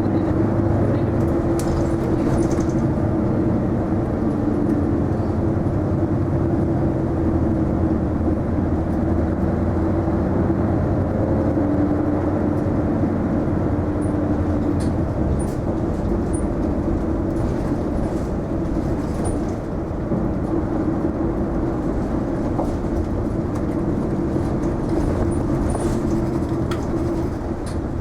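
Interior running sound of an Isuzu Erga non-step city bus: a steady engine and drivetrain drone with road noise, and a few faint rattling ticks.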